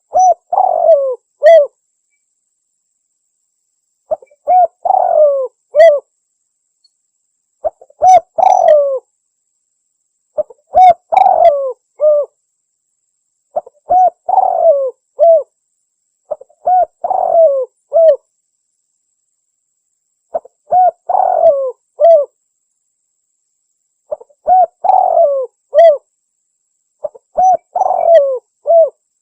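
Spotted dove (tekukur) lure call: a cooing phrase of a few low notes, repeated about every three seconds, nine times, with dead silence between phrases.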